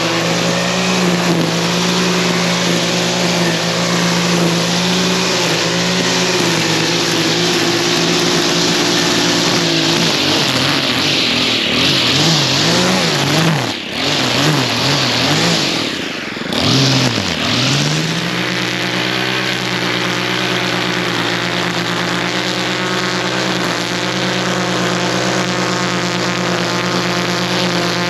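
Vehicle engine and road noise heard from inside the cab while driving in the rain, with a steady engine note over a loud hiss of tyres on the wet road. Near the middle, for several seconds, the engine note wavers and dips as the vehicle slows and speeds up again, then settles back to a steady cruise.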